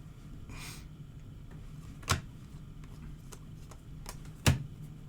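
Trading cards being handled at a table: a soft swish about half a second in, then two sharp taps about two and a half seconds apart, with a few fainter ticks.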